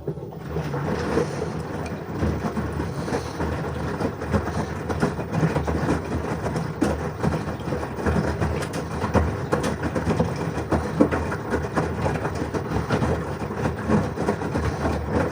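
LG washing machine running a wash cycle: a continuous rumble from the drum with many irregular knocks, starting abruptly at the beginning.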